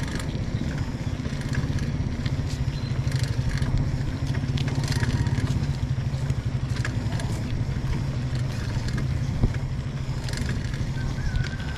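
A vehicle's engine running steadily, with scattered clicks and rattles.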